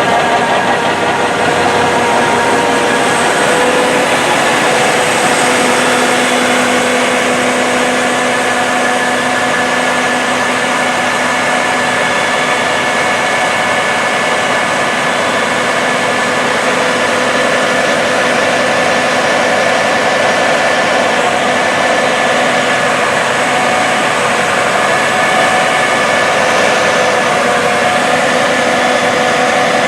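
A John Deere S790 combine running steadily while harvesting wheat: a loud, even machinery drone with several held whining tones.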